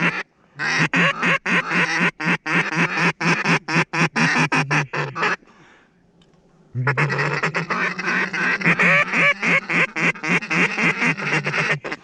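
A duck call blown in a fast, continuous chatter of short quacks. It breaks off about five seconds in for a second or so, then starts again.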